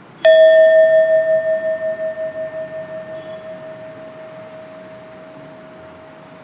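One struck bell-like chime that rings out about a quarter second in and slowly fades, its tone pulsing as it dies away.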